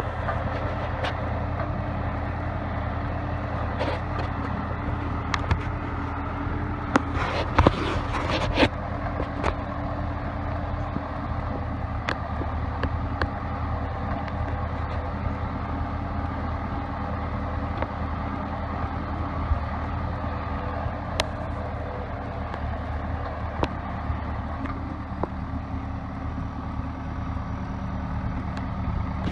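CASE 580B backhoe's four-cylinder diesel engine running steadily at low speed, with a few sharp knocks and rattles about seven to eight seconds in.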